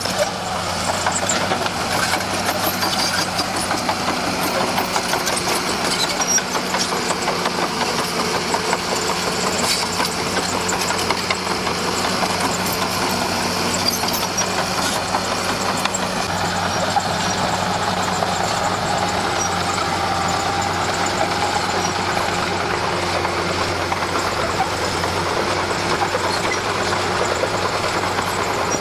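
Diesel engine of a Komatsu D41P bulldozer running steadily, a constant low drone with a dense rattle over it.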